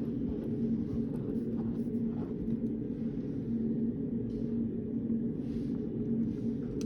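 Steady low hum of the study room's background noise, with a constant tone running through it and a few faint small ticks and rustles.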